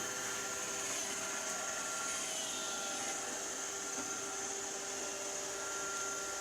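Robot vacuum cleaner running: a steady whir with a few constant, high whining tones.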